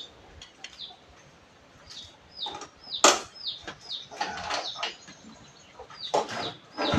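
A bird chirping over and over, short hooked calls about once or twice a second, with a few brief rustling rasps in between, the strongest about three seconds in.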